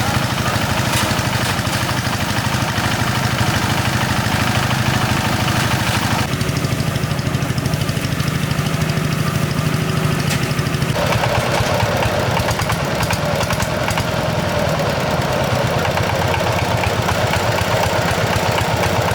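Small engine running steadily with a fast even pulse; its tone changes abruptly twice.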